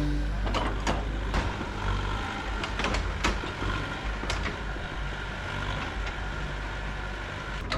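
Steady low engine rumble, with several sharp knocks and clanks scattered through it, typical of machinery at work on a site.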